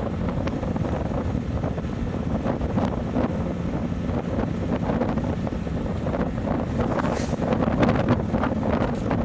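Wind buffeting the microphone of a moving motorcycle, a steady gusty rush with the ride's engine and road noise underneath.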